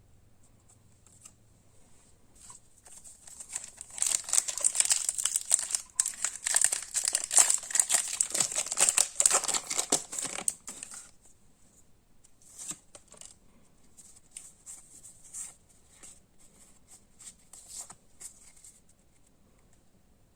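Foil booster-pack wrapper being crinkled and torn open, a dense crackling rustle that lasts about seven seconds. After it come scattered lighter rustles and taps of packaging and cards being handled.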